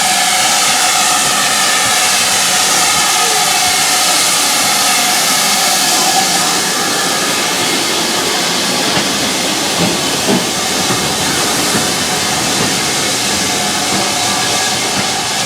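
Steam locomotive blowing off steam: a loud, steady hiss of escaping steam with a faint ringing note in it, typical of the safety valves lifting while the engine stands.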